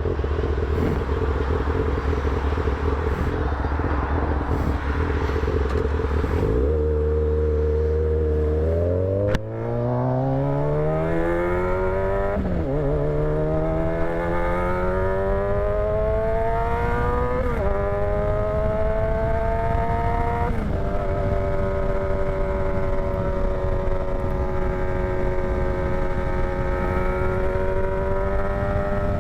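Motorcycle engine, its exhaust tip missing, running steadily and then accelerating through several upshifts. The pitch climbs between shifts before the engine settles to a steady cruise, with wind rushing throughout.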